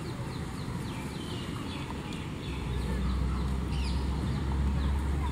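Birds chirping outdoors: many short, quick, falling chirps, several a second, with a low rumble that sets in about halfway through.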